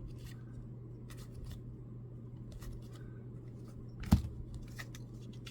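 Baseball trading cards being handled and turned over: faint scattered ticks and rustles with one sharper click about four seconds in, over a steady low hum.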